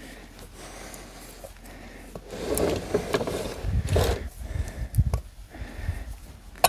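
Hand work on a tractor tire and wheel: irregular scraping, rubbing and sharp knocks, quiet for the first two seconds or so and then busier.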